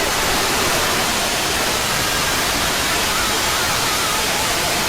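Loud, steady hiss of noise like static, starting abruptly and holding level, with a faint warbling tone appearing about three seconds in.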